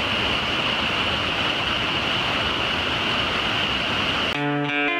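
Waterfall in full flow after monsoon rain: a steady rush of falling water. Near the end it cuts off suddenly and guitar music takes over.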